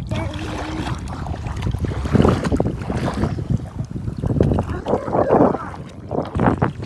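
Wind buffeting the microphone over sea water sloshing, a constant low rumble with louder noisy surges about two seconds in and again later.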